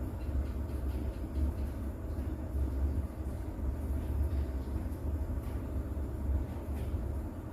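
Steady rain recording with a deep, continuous low rumble underneath and faint scattered drop ticks.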